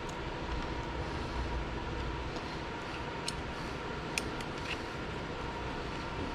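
Steady low hum of background machinery with a faint steady tone, and a few light clicks of small metal parts being handled around the middle.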